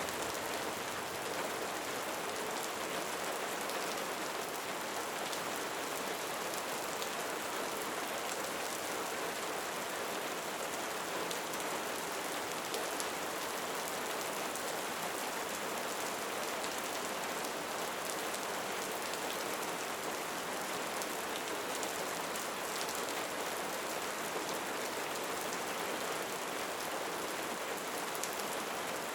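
Steady rain falling: an even hiss with a fine patter of drops throughout.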